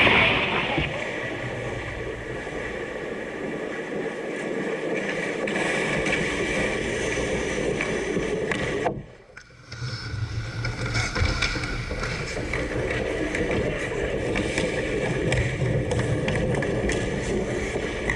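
Hockey play: skates scraping across the playing surface, with scattered sharp clacks. The sound cuts out briefly about halfway through.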